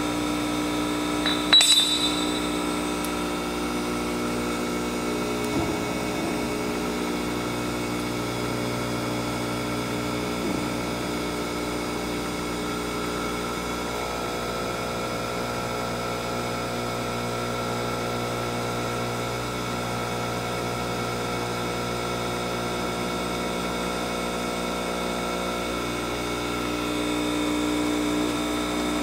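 Boyer Schultz 6" x 18" surface grinder running with a steady motor and spindle hum. A single sharp metallic clink rings out about two seconds in.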